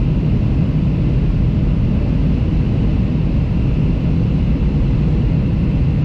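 Steady, loud cabin noise inside a Boeing 737 in flight: a low rumble of engines and rushing air, with a faint high steady whine over it.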